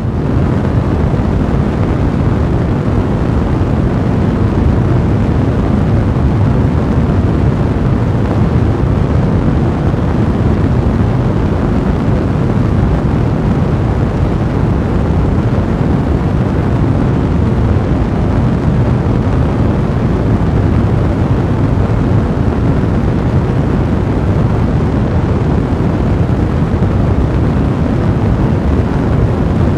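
Fireplace fire blazing: a steady, dense, low rumbling rush of flame noise, with no separate loud pops standing out.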